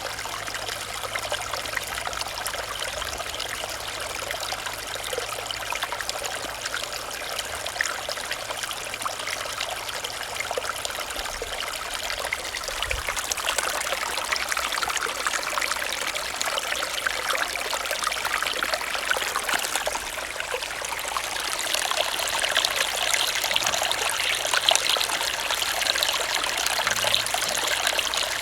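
Small stream running over rocks: a steady, dense babbling and trickling of water, a little louder in the last third.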